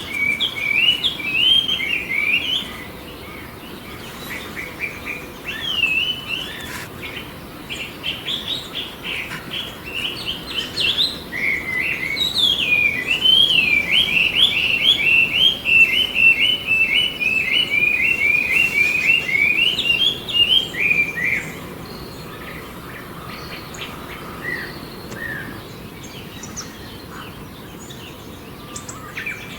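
A songbird singing long runs of quick, varied chirping phrases. The song is loudest in the middle and fades after about two-thirds of the way to a few scattered soft notes.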